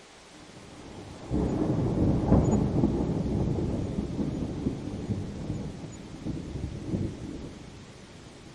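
A thunder rumble over steady rain: it breaks in suddenly about a second in, is loudest a second later, then rolls on with a few smaller swells and fades away near the end.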